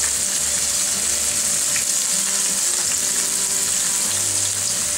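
Steady sizzle of onion rings deep-frying in a pot of hot oil, together with a steak searing in bacon grease in a cast iron skillet.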